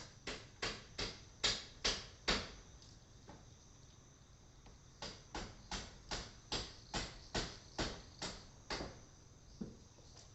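Evening insects chirring steadily in the high range, broken by two runs of sharp, evenly spaced pulses, about two and a half a second; the first run grows louder, and the second starts about five seconds in.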